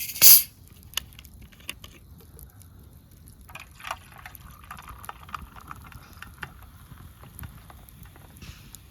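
Water sounds: a short loud splash, followed by scattered small drips and clicks and a soft trickle.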